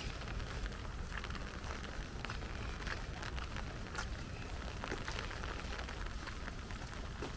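Light rain falling, with many irregular small ticks of drops hitting surfaces over a steady hiss and a low rumble underneath.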